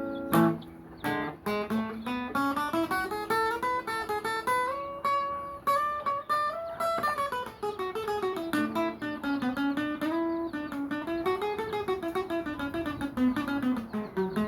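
Acoustic guitar (violão) playing a melody of quick single plucked notes. The line climbs steadily to a high point about halfway through, then falls, rises once more and falls again near the end.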